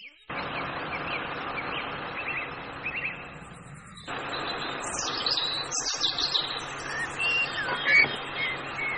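Small birds chirping in short rising and falling calls over a steady background hiss. The hiss changes abruptly about four seconds in, and the chirps come more often after that.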